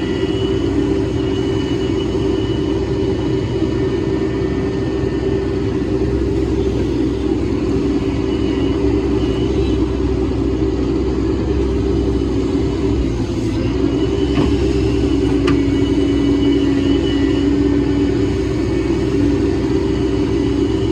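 Hydraulic excavator's diesel engine running steadily under work, with a faint high whine that comes and goes. The hum shifts slightly about 13 seconds in.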